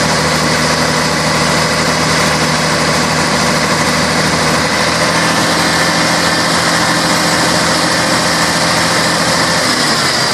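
Scania K113 bus's six-cylinder diesel engine running steadily, with a slight shift in its tone about halfway through.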